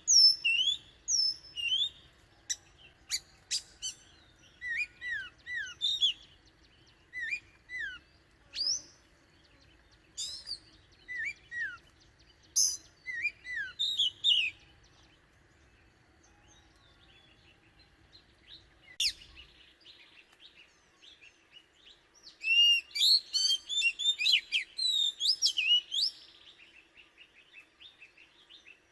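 Oriental magpie-robin singing: phrases of clear whistled notes that slide up and down in pitch, separated by pauses, with a quiet spell mid-way and then a fast, dense run of song near the end.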